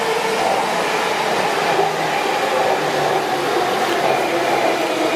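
Electric commuter train running along the tracks: a steady, loud rush of wheels on rail and running gear.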